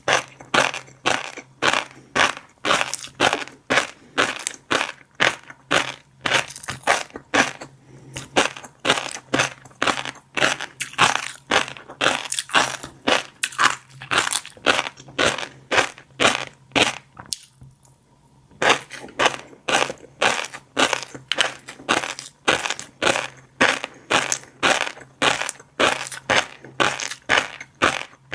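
Close-miked chewing of fish roe, the eggs crunching and popping in a steady rhythm of about two chews a second, with one brief pause about two-thirds of the way through.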